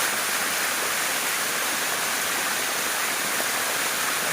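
Steady rushing of water down a limestone cascade waterfall, an even hiss that does not change.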